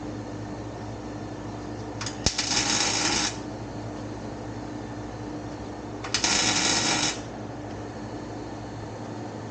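Welder laying two short tacks on exhaust pipe, each a crackling hiss of about a second, the first about two seconds in and the second about six seconds in, over a steady hum.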